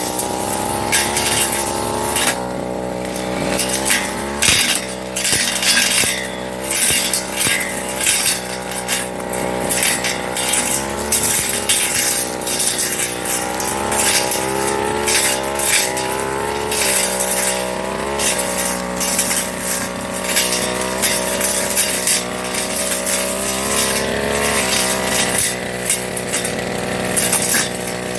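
Firman FGB389 petrol brush cutter with a Tanika blade running and cutting grass, its engine pitch rising and falling with the throttle, with many short sharp crackles of the blade striking through the growth.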